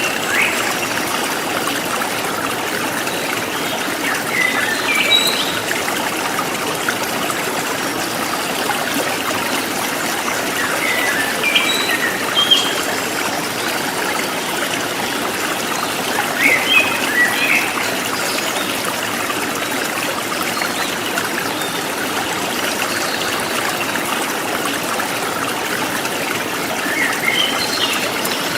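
Steady rush and trickle of a flowing river, with a few short higher sounds standing out now and then over the even wash of water.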